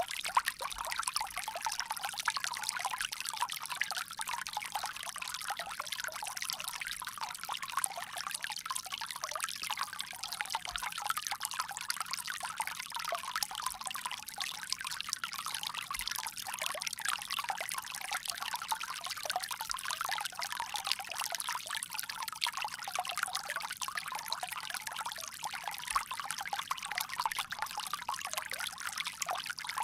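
Water pouring steadily from a bamboo spout in a continuous trickle and splash.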